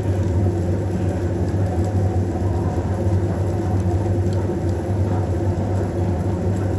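A steady low mechanical drone, like a motor or engine running at an even speed, with no change in pitch or level.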